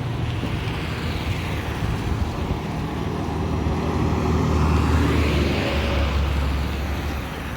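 A motor vehicle passing on the road: a low engine hum with tyre and road noise that swells to its loudest about five seconds in, then eases off.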